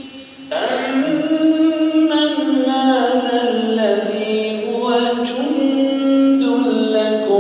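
A man's voice reciting the Quran in the melodic, chanted tajweed style, drawing out long notes that glide slowly up and down in pitch. A brief breath pause comes at the very start, and a new phrase begins about half a second in.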